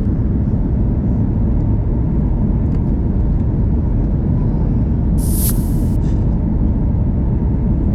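Steady low rumble of an airliner's cabin during the approach to landing, heard from a window seat. A short hiss cuts in a little over five seconds in and lasts under a second.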